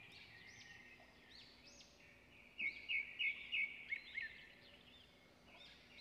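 Birds calling: a steady chorus of high chirping notes, with a louder run of about six quick notes a little before the middle.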